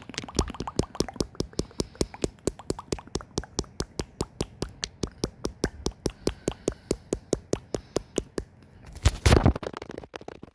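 ASMR mouth sounds close to the microphone: a fast, even run of sharp mouth clicks, about five a second, followed near the end by a short, louder burst of noise.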